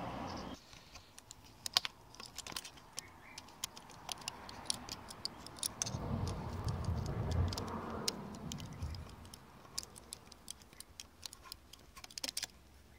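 Irregular light clicks and taps of small plastic and metal parts being handled, typical of working a GoPro mount and its screws. There is a low rumble in the middle.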